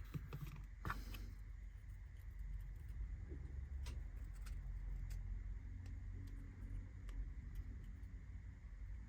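Small laser-cut kit parts being handled and fitted together on a workbench: a short clatter about a second in, then a few light clicks, over a steady low rumble.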